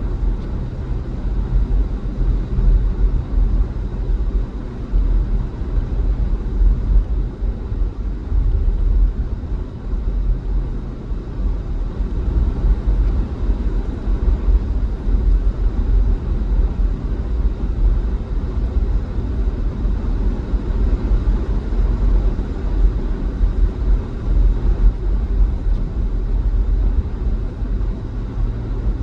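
A vehicle driving on a highway: a steady low rumble of engine and road noise that holds without a break.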